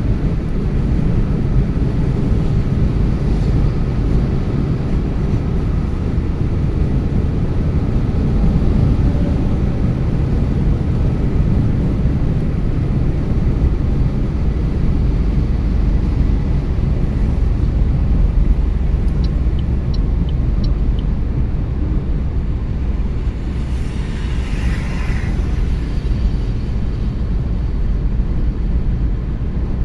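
Steady road and engine noise of a car being driven, a low even rumble, with a few faint ticks about two-thirds of the way through.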